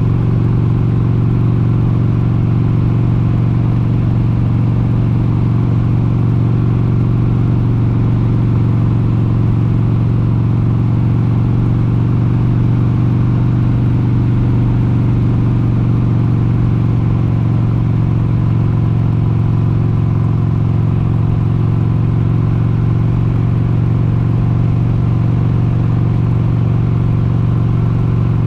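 1996 Harley-Davidson XLH883 Sportster Hugger's air-cooled 883 cc V-twin running steadily under way, holding an even pitch with no revving or gear changes.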